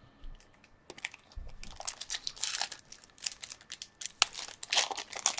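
Crinkling and tearing of a foil trading-card pack wrapper being opened by hand, an irregular crackle that starts about a second in and grows busier toward the end.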